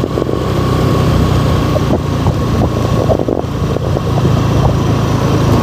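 An engine running steadily, a constant low drone with a faint high steady tone above it and scattered light clicks.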